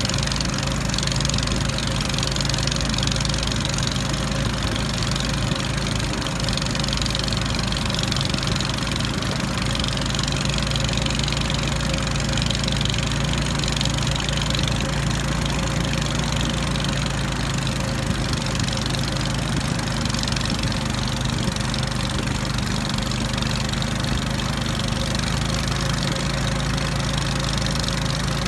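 The small outboard engine of a Li River tourist raft running steadily at a constant speed, a low even hum with a hiss over it.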